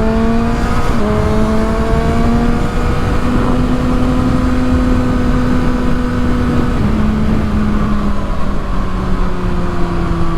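Kawasaki ZX-6R's inline-four engine pulling up through the revs, with a quick gear change about a second in, holding a steady pitch, then stepping down near the seven-second mark and easing off with a slowly falling pitch, over a constant rush of wind.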